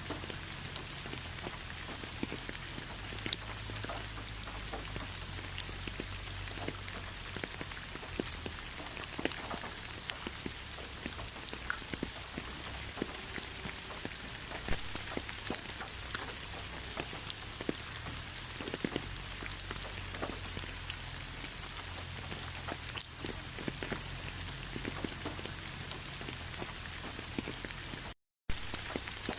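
Steady rain, with many individual drops ticking sharply on a hard surface over a constant hiss. The sound cuts out completely for a split second near the end.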